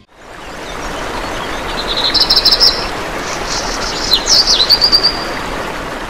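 Birds chirping over a steady rushing background noise: a rapid trill about two seconds in, then a call with quick up-and-down glides about four seconds in. The sound fades in at the start and fades out near the end.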